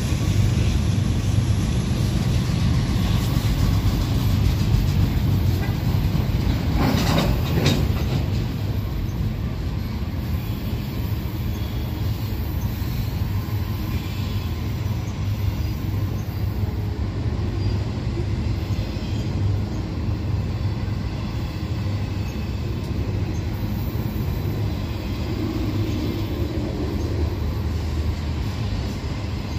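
Union Pacific manifest freight train rolling past: a steady rumble of wheels on rail, with a brief louder clatter about seven seconds in.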